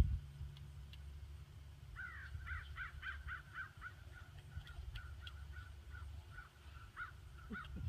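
A bird calling in the background: a quick run of rising-and-falling notes about two seconds in, then a steady series of short repeated notes, over a continuous low rumble.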